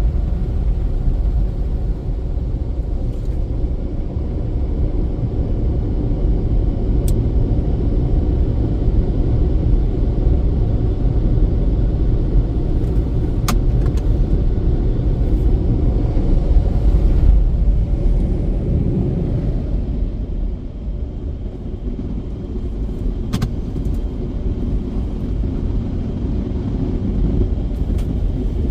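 Automatic car wash machinery running: a steady low rumble, with a few faint ticks.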